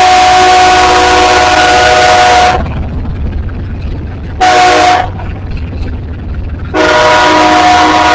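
Diesel locomotive's multi-chime air horn on a BNSF coal train: the end of a long blast, a short blast, then another long blast starting near the end, the long–short–long close of a grade-crossing signal. A steady low rumble runs underneath.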